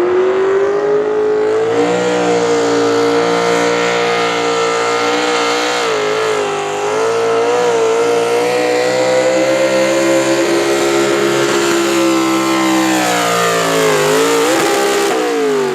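A competition pulling vehicle's engine held at high revs under load through a pull run, wavering slightly and dipping briefly about six seconds in. Near the end the revs fall away, blip once, and drop off as the pull finishes.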